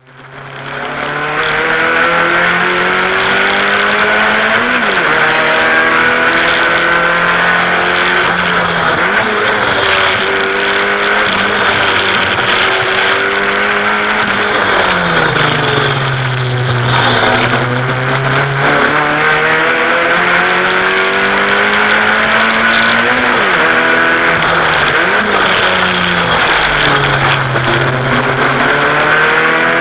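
Four-cylinder sports car engine driven hard on a mountain road, fading in at the start. Its pitch climbs under acceleration and drops sharply at gear changes, and it slides down and holds low as the car slows for a corner about fifteen seconds in.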